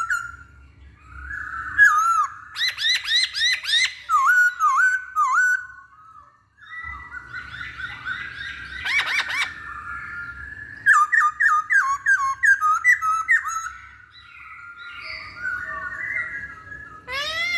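Poksay Hongkong laughingthrush singing: loud, clear whistled phrases built from quickly repeated swooping notes, broken by short pauses, with a fast run of notes about two thirds of the way through.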